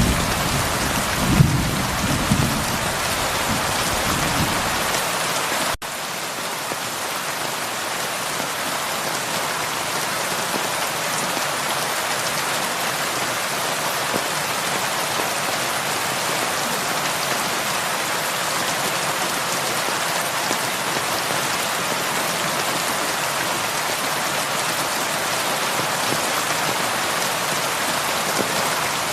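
Heavy rain falling steadily, a dense even hiss of drops. In the first few seconds a low rumble of thunder swells and fades away, and about six seconds in the sound drops out for an instant before the rain carries on unchanged.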